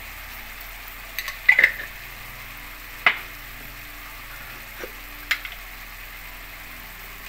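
Garlic, lemongrass, mushrooms, tomato and ginger sizzling in a pot with a steady frying hiss. A spoon stirring and knocking against the pot makes a few sharp clinks, the loudest about one and a half and three seconds in.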